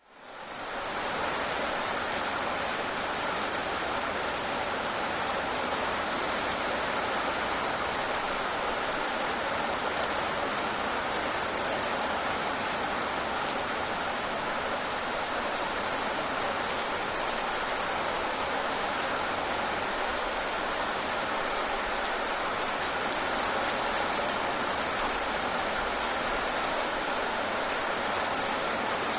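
Steady rain falling, a dense even patter with fine drop ticks, fading in over the first second.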